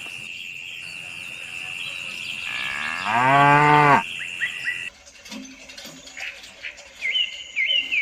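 A steady high whistle-like tone, then about two and a half seconds in a loud, long animal call that rises and falls in pitch for about a second and a half. Near the end come a few short rising chirps.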